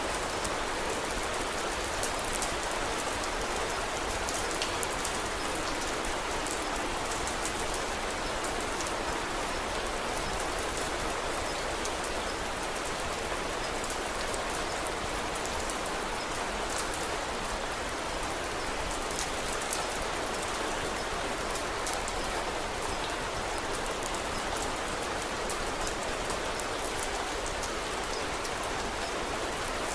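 Steady rain falling, an even hiss with scattered faint high ticks throughout.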